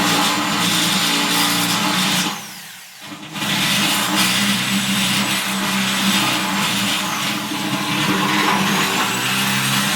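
Electric drill running steadily as it enlarges a hole in sheet steel. The trigger is let off about two seconds in, the sound dying away for about a second, then the drill runs again.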